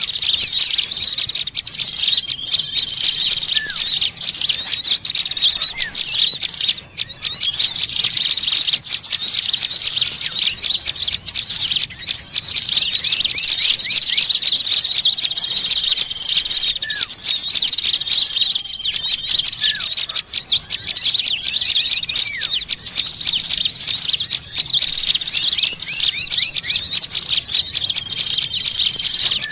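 A noisy flock of small birds chattering and chirping at once, many quick high calls overlapping in a dense, steady mass. It is the agitated, scolding chatter of small birds.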